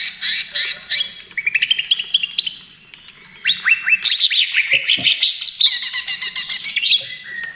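Green leafbird (cucak ijo) singing a fast 'trotol' song of rapid repeated chirps and trills, with a short lull about three seconds in before another dense run of notes.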